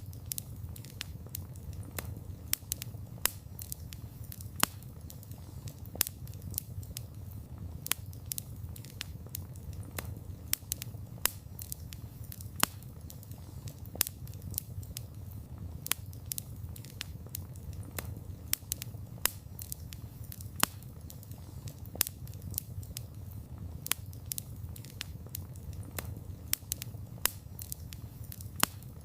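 Wood campfire burning steadily: a low rumble of flames with frequent irregular crackles and sharp pops from the burning wood.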